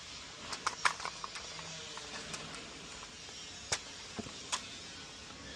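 Small plastic clicks and taps as bearing pods are pushed back onto a Hayward PoolVac Ultra suction cleaner's A-frame: a quick cluster in the first second or so, then two sharp clicks near the end.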